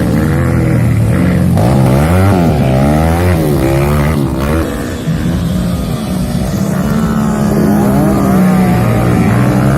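Several motocross motorcycle engines revving, their pitch rising and falling again and again with throttle and gear changes, over a steady drone of more engines.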